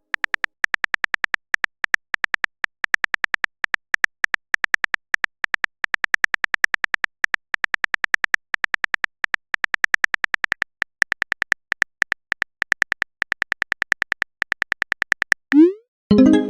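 Rapid synthetic keyboard-typing clicks from a texting-app sound effect, coming in uneven runs. Near the end they stop and give way to a short rising whoosh, the message-sent sound, followed by a pitched pop.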